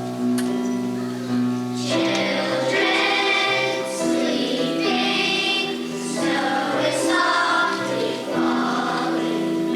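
A children's choir singing in sustained phrases.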